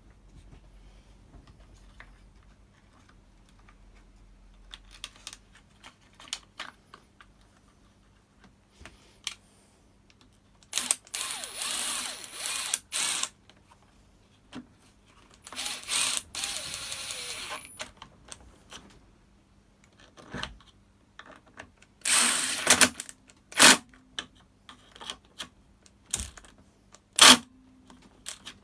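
Workshop handling noise: plastic parts and tools being moved and fitted, with scattered clicks and knocks, three short stretches of scraping and rustling, and a couple of sharp loud clacks near the end.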